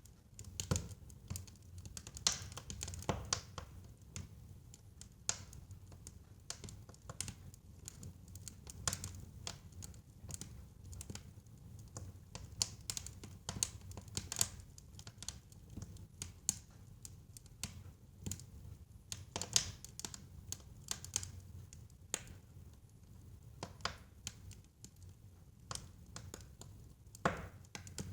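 Wood fire burning in a fireplace: irregular crackles and sharp pops from the burning logs over a low steady rumble of the flames.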